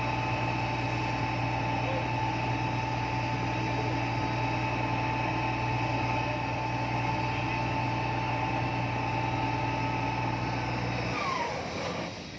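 Epiroc DM45 drill rig running steadily with a low hum and a steady whine. About eleven seconds in it shuts down: the hum cuts out and the whine glides down as the machine winds down, following the call to switch it off.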